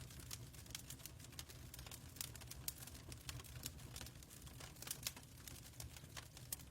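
Fireplace fire crackling: irregular small pops and snaps over a low steady rumble.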